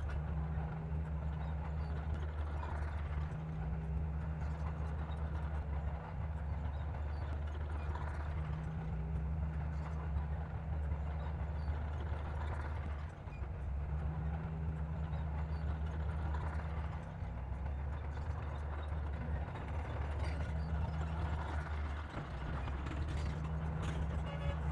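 Komatsu D60P bulldozer's diesel engine running with a steady low drone, dipping slightly now and then as the load changes.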